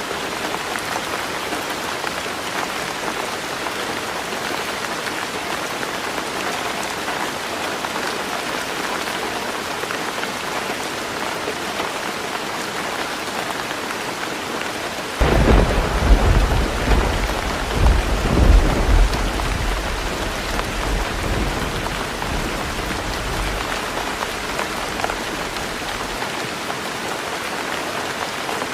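Heavy rain drumming steadily on a tin roof. About halfway through a thunderclap breaks in suddenly and rolls on as a deep rumble with two louder peaks, fading out near the end.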